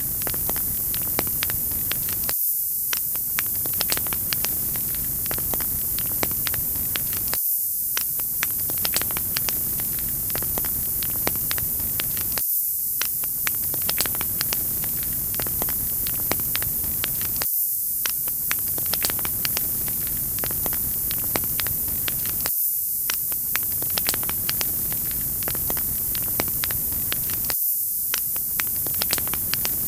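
Wood fire crackling: many sharp pops and snaps over a steady hiss. The sound repeats in a loop about every five seconds.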